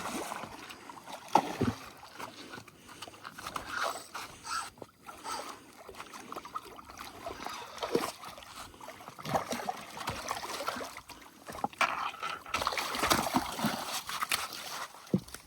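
Water splashing and sloshing around a fishing boat, with scattered knocks on the hull, growing louder near the end.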